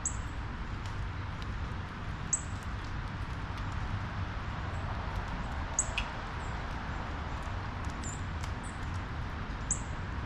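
Small birds giving short, very high chirps, each dropping slightly in pitch, scattered every second or two over a steady low rumble of background noise.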